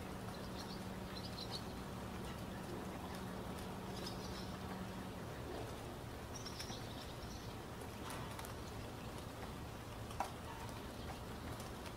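Ambient background of steady hiss with faint birdsong: a few short, high chirps scattered through it. A low hum drops out about five seconds in, and a single short click comes near the end.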